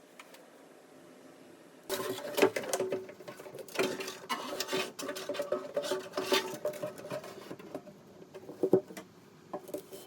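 DeWalt trigger clamps being pumped and tightened: a run of rapid clicks and rattles with a faint metallic ring. It starts about two seconds in and comes in bursts.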